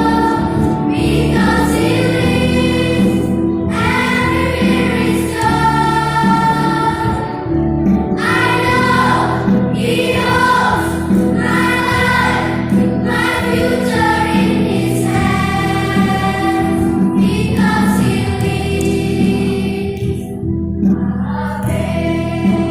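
Primary-school children's choir singing a song in long held phrases over a steady low instrumental accompaniment.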